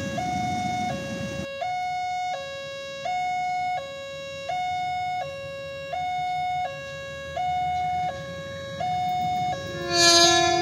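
Electronic railway level-crossing alarm sounding, a high and a low tone alternating about every 0.7 seconds. About ten seconds in, a horn sounds briefly over it, the loudest moment.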